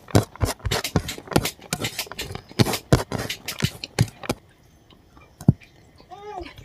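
Close-miked chewing and lip-smacking on a mouthful of rice: rapid wet clicks and smacks for about four seconds, then quieter with a single click after that.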